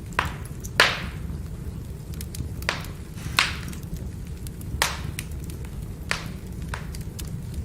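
Firewood burning with a steady low rumble of flames and sharp, irregular crackling pops, about seven of them, the loudest just under a second in.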